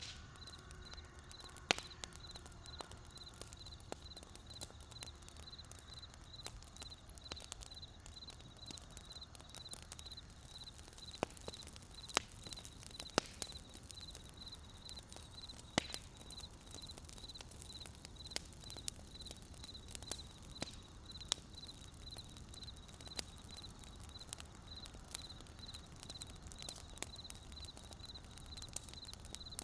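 Wood fire crackling: irregular sharp pops and snaps, a few louder than the rest, over a low steady rumble. A steady, evenly pulsed high chirping runs behind it.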